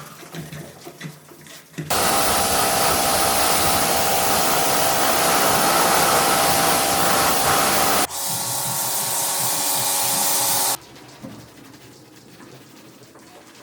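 A loud, steady hiss of air or spray from a workshop tool. It starts suddenly about two seconds in, shifts to a slightly different tone at about eight seconds, and cuts off sharply just before eleven seconds.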